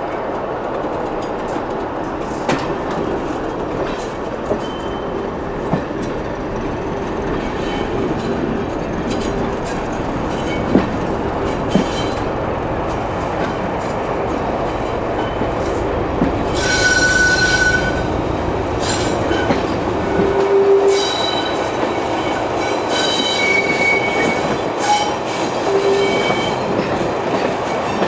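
Passenger train running round a curve, heard from a carriage window: a steady rumble of wheels on track with scattered clicks at rail joints. High squeals from the wheels come in about two-thirds of the way through and recur on and off near the end.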